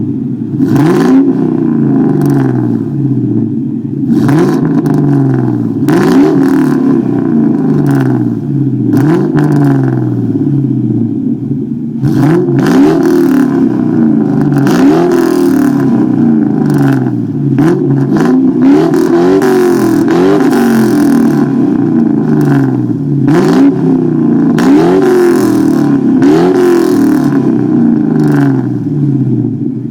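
2003 Mustang GT's 4.6-litre V8 through Borla Stinger mufflers and an off-road X-pipe, revved over and over, the pitch climbing and falling back each time.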